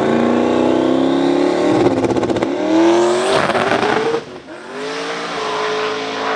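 Drag race car engine accelerating hard, its pitch climbing and then dropping at a gear change about two and a half seconds in. It dips again around four seconds in and settles into a steadier drone.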